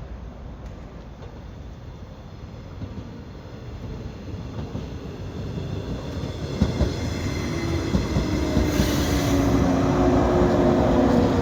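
A JR 115-series electric multiple-unit train approaches and brakes into a station, growing steadily louder. In the second half its wheels and brakes squeal in steady tones, with a brief hiss about nine seconds in.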